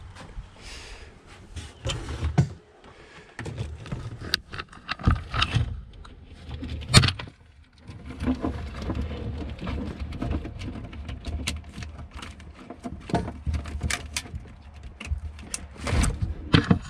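Hands working on a jet ski's fuel sending unit and its cable hookup: irregular clicks, knocks and rattles of parts being handled, with one sharper knock about seven seconds in, over a low rumble.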